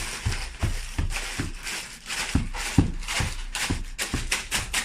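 Rapid rustling and crinkling of snack packaging being handled, several crackles a second, with soft thumps now and then.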